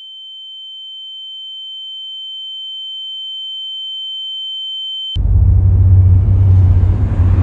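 A single steady high-pitched sine tone, a ringing sound effect, that slowly grows louder and cuts off abruptly about five seconds in, giving way to a low rumble.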